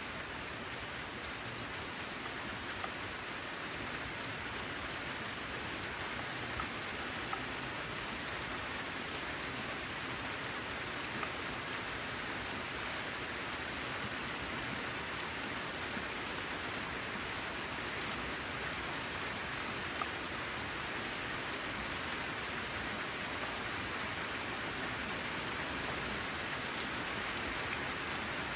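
Steady rain falling on a corrugated zinc roof: an even, dense hiss with occasional sharper single drop ticks.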